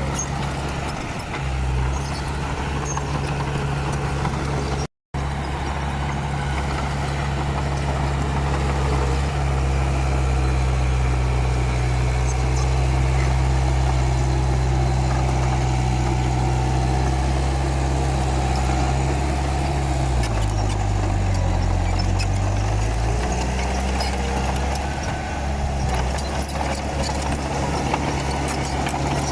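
Komatsu D31P bulldozer's diesel engine running steadily. Its pitch dips for about three seconds around twenty seconds in, then comes back up. The sound cuts out for a split second about five seconds in.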